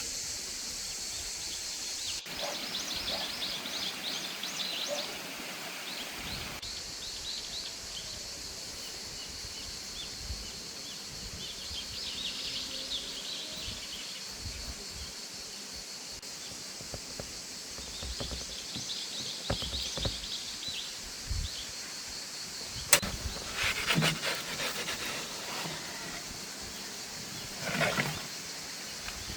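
Quiet outdoor ambience with small birds chirping in short flurries now and then, over a steady high hiss. A sharp click sounds about two-thirds of the way in, followed by a few knocks near the end.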